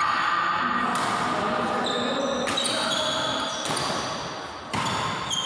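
Badminton rally: rackets hitting the shuttlecock four times, about one to one and a half seconds apart, with short squeaks of court shoes on the hall floor between hits and a hall echo.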